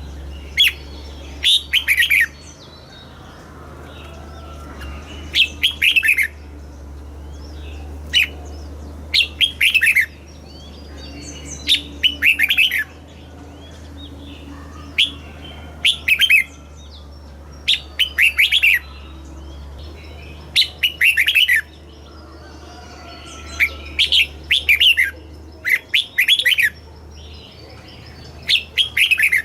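Red-whiskered bulbul singing: short phrases of quick notes, repeated every two to three seconds, over a steady low hum.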